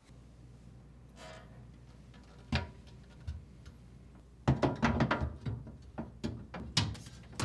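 Refrigerator shelves being hooked into their rear supports and tilted down into place: a single sharp knock, then a busy run of knocks and clatter near the end.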